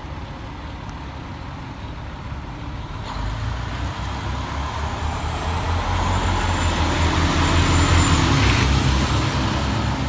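Pierce Arrow XT aerial ladder fire truck's diesel engine rumbling as it drives past, growing louder about three seconds in and loudest near the end, with a thin high whine over the rumble.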